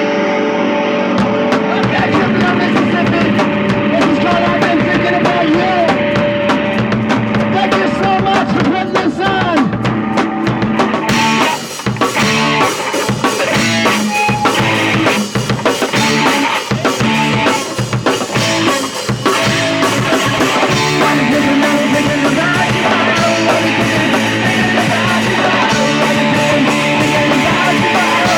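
Loud rock music with distorted guitar and a drum kit, punk in style. Through the middle stretch the drums hit hard in a run of separate beats.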